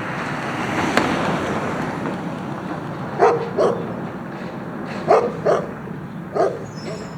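A dog barks five times, in two pairs and then once more, over a steady engine-and-street noise background; a single sharp click sounds about a second in.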